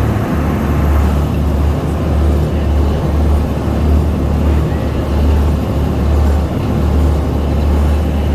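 Amphibious duck tour boat's engine running steadily underway on the river, a loud low drone heard from aboard.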